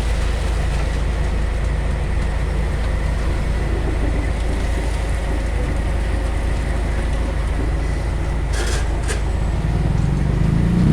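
Steady low engine rumble from the diesel concrete-pouring machinery, a concrete mixer truck and concrete pump, running without let-up, with a faint steady whine above it. Two short sharp knocks come near the end, half a second apart.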